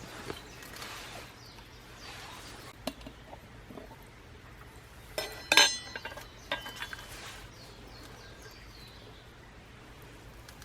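Light clinks and taps of coffee-making gear, cookware or utensils knocking together, with the loudest clink and a short ring about five and a half seconds in and a few lighter taps around it.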